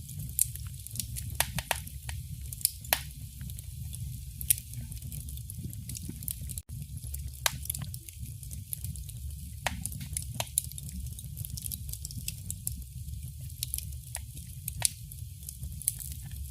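Wood fire burning in a fireplace: irregular sharp crackles and pops from the burning logs over a steady low rumble of the flames, with a split-second gap about six and a half seconds in.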